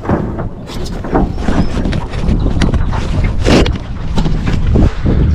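Wind buffeting the microphone and water rushing and splashing along the hull of a Gull sailing dinghy under sail, with a louder rush of spray about three and a half seconds in.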